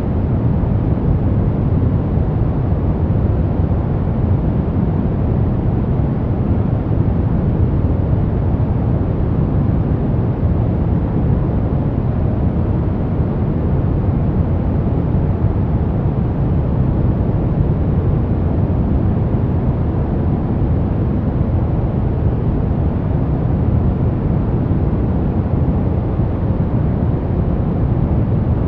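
Steady white noise for baby sleep: an even, deep rushing hiss weighted toward the low end, unchanging throughout.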